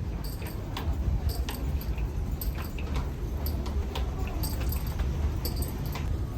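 Steady low rumble with many small, irregular clicks and rattles, like gear or keys jostling in handling.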